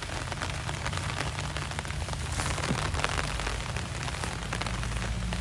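Steady rain falling, a dense crackle of drops.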